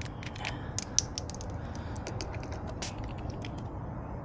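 Small metallic clicks and ticks from handling a tire pressure gauge at a tire's valve stem while checking its pressure, with a sharper click about a second in and another near three seconds.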